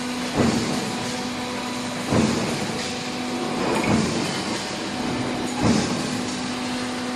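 Hydraulic press machinery running: a steady hum that drops away and comes back, with a short thud about every second and three-quarters, four times.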